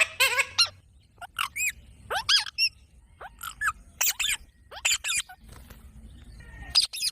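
A pet green parrot calling: a string of short, sharp chirps and squawks with arching pitch. They come in quick clusters a second or so apart, densest near the start.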